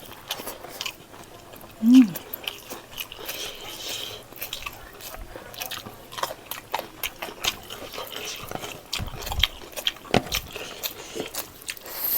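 A person eating close to the microphone, biting and chewing pork leg in gravy with rice, with many small wet clicks and smacks. There is a short hummed voice sound about two seconds in.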